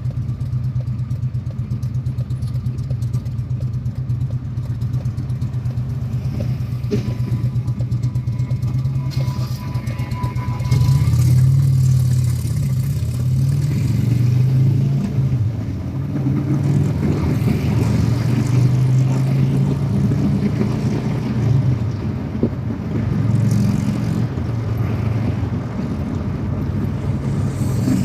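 Motorcycle engine running steadily at low revs, then louder from about eleven seconds in, its pitch rising and falling with the throttle.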